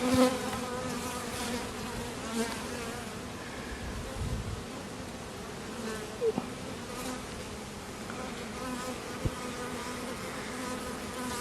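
Honeybees buzzing in a steady hum over an open hive with its frames out, with a few soft knocks.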